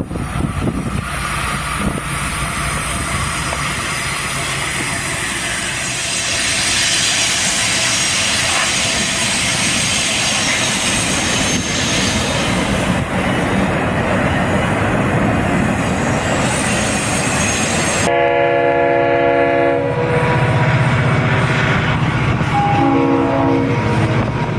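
Florida East Coast Railway diesel freight trains passing: a steady rumble of locomotives and wheels on the rails. After an abrupt cut about three quarters of the way in, a locomotive horn sounds a chord, followed by shorter horn notes near the end.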